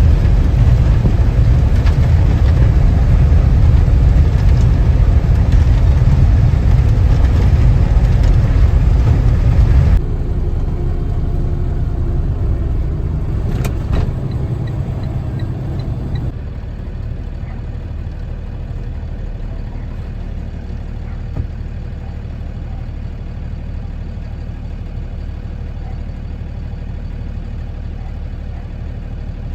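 A vehicle engine runs with a steady low rumble, loud for about the first ten seconds, then abruptly quieter, then quieter again a few seconds later. There is a single sharp click about fourteen seconds in.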